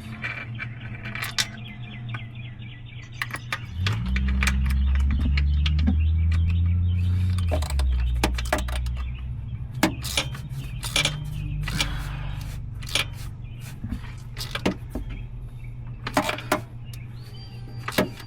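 A vehicle engine running, swelling louder and deeper for about four seconds as the vehicle is moved, then settling back, with scattered clicks and rattles throughout.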